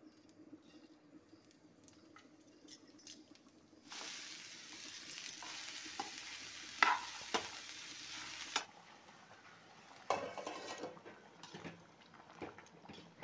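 Chopped parwal (pointed gourd) frying in hot oil in a pan, with a loud sizzle that starts abruptly about four seconds in and cuts off suddenly about four seconds later. A spoon knocks against the pan a few times during the sizzle.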